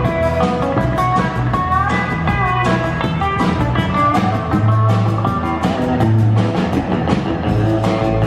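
A live country band playing an instrumental break in a truck-driving song: a guitar lead over bass notes and a steady drum beat.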